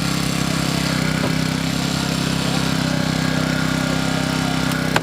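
An engine running steadily at a constant speed, with a short sharp click near the end.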